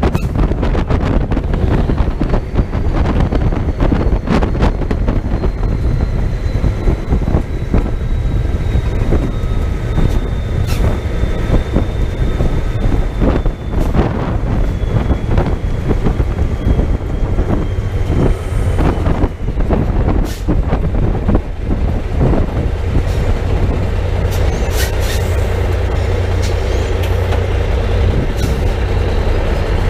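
American semi-truck on the road: a steady, loud low engine and road rumble, with scattered sharp knocks. A faint whine slowly falls in pitch over the first twenty seconds or so.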